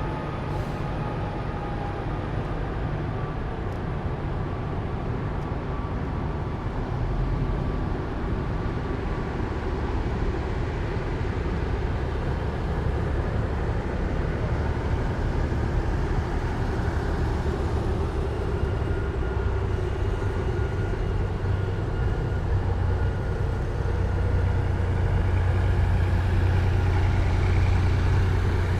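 Heavy military vehicles in a parade column driving past, their diesel engines rumbling steadily with a faint whine. The sound grows louder toward the end.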